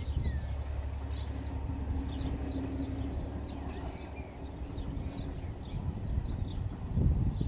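A diesel train running with a steady low rumble and a hum that holds for a few seconds, while small birds chirp repeatedly over it.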